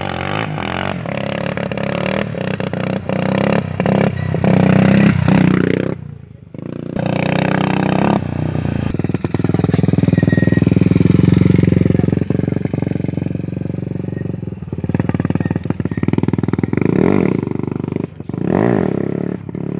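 Motorcycle engine running hard and revving up and down repeatedly during stunt riding. It drops off briefly about six seconds in, then picks up again.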